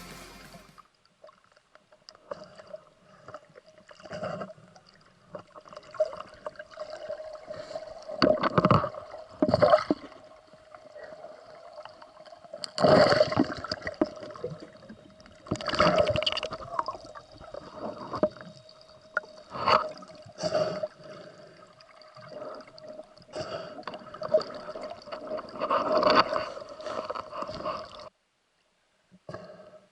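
Water gurgling and sloshing around a diver's camera in irregular bursts, over a faint steady hum.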